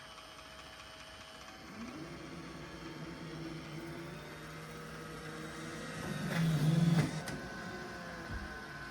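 Roomba J7+ Clean Base self-emptying the robot: its suction motor starts about two seconds in, rising to a steady whine, gets louder for about a second near the middle, then keeps running.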